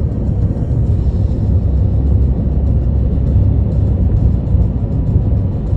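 Deep, steady rumble of car engines idling, with no revving, mixed with background music.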